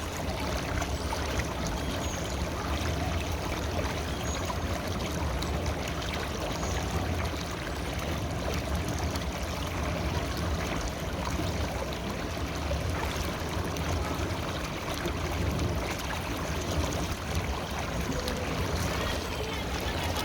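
River water flowing steadily, a continuous, even rush of running water.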